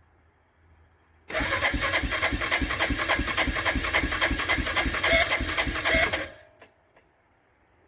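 2004 Yamaha Kodiak 450's single-cylinder four-stroke engine cranking over on a cold start after weeks in sub-zero weather: an even, rapid pulsing for about five seconds without catching, then it stops.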